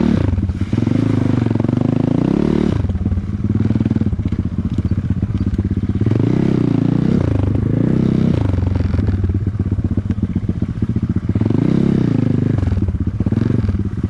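Dirt bike engine under way off-road, the revs rising and falling again and again as the throttle is worked, with some clatter from the bike over rough ground.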